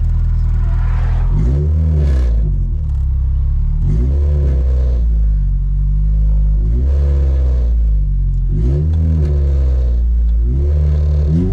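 Toyota Corolla's 2ZZ-GE four-cylinder engine idling, with the throttle blipped about five times, each a brief rise and fall in revs, every two to three seconds, while the car stands waiting to pull away.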